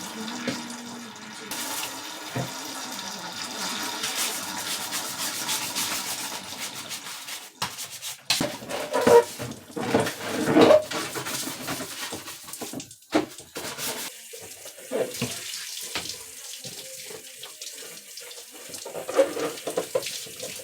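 Water running from a tap into a sink, steady at first, then broken by irregular splashing and knocks from about seven seconds in.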